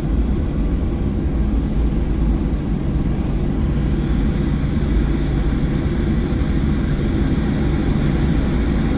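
Boeing 737-700's CFM56-7 jet engines heard from inside the cabin during taxi after landing: a steady low rumble with high whining tones that grow stronger about four seconds in.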